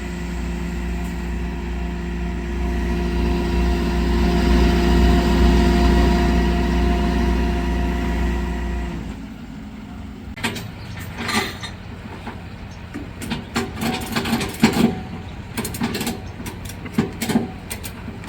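A vehicle engine running steadily with a low rumble and a hum, swelling a little midway, then cutting off suddenly about nine seconds in. After it come scattered, irregular clicks and knocks.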